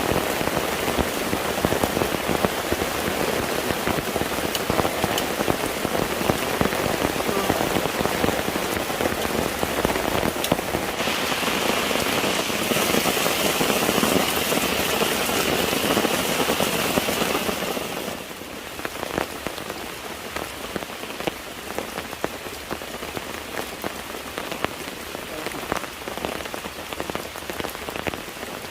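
Steady rain falling, a dense patter of close drop strikes. A brighter hiss joins it about eleven seconds in, and the rain sound drops noticeably quieter about eighteen seconds in.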